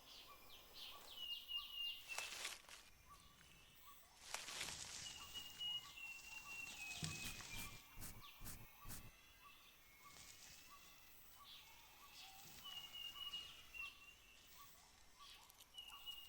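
Tropical rainforest ambience: an animal call repeating in phrases of quick falling notes that end in a held high tone, over a steady rapid ticking chorus. Rustling comes and goes about 2 s in and again from about 4 to 9 s.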